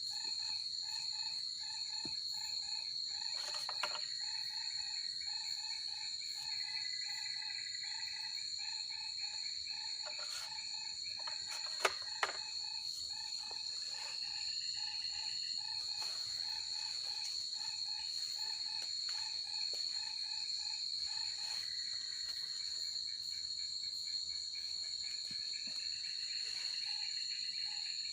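Forest insect chorus at dusk: a steady high-pitched trill, with other rhythmic chirping calls coming and going beneath it. Two sharp clicks sound about twelve seconds in.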